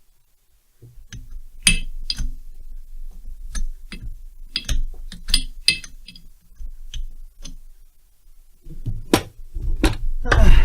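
Small metal parts and tools clinking and being handled: a string of sharp clinks and light knocks, then heavier rustling and knocking near the end.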